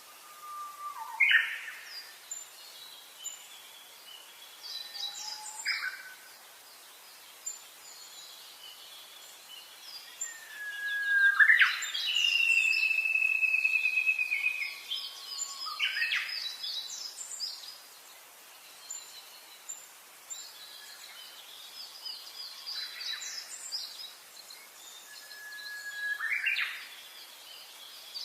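Several wild birds singing and calling over one another: short high chirps, trills and quick rising sweeps. The loudest sound is a long whistled note, falling slightly, that starts a little before halfway and lasts about three seconds.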